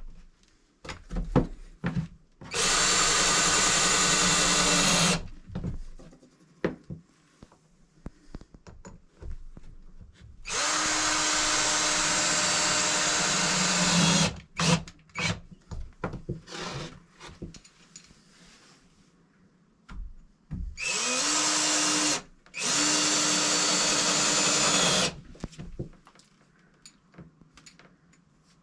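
Power drill driving screws in four runs of a few seconds each, its motor running at a steady pitch, with short clicks and knocks of handling between the runs.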